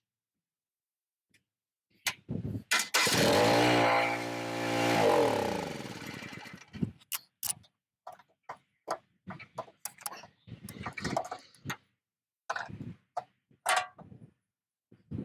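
The mini excavator's small engine cranks and catches, running for a few seconds with its speed rising before it dies away. A run of short clicks and knocks follows.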